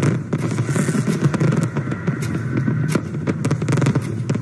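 Fireworks display: many irregular bangs and crackling bursts from shells going off together, over a continuous low rumble.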